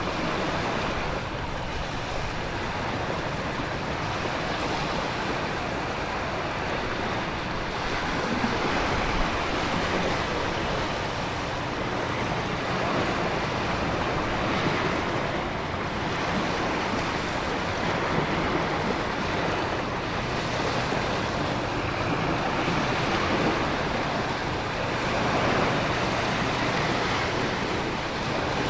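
Storm ambience: heavy rain and gusting wind over ocean waves crashing on a rocky shore, a dense steady wash of noise that swells and eases every few seconds.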